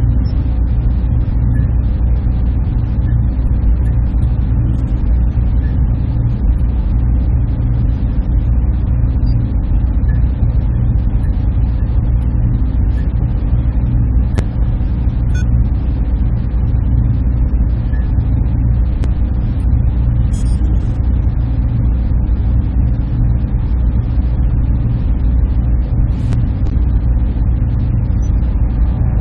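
Server room machinery running: a steady low hum with an even rush of fan noise above it, unchanging throughout, with a few faint clicks scattered through.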